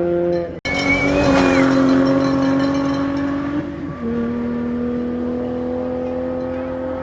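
Rally car engine running hard at high, steady revs, cut in abruptly about half a second in after a different engine note. Its pitch steps down about four seconds in, then holds steady again.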